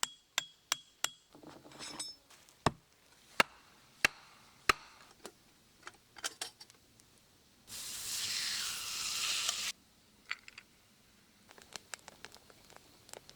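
A run of sharp clinks and knocks, as of glass and utensils being handled, then a two-second hiss about eight seconds in, followed by a few lighter clicks near the end.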